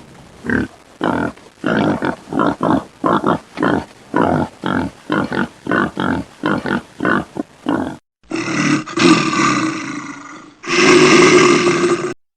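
Animal call sound effect: a run of short, rough calls repeating about two to three times a second for some eight seconds, then, after a brief pause, two longer calls.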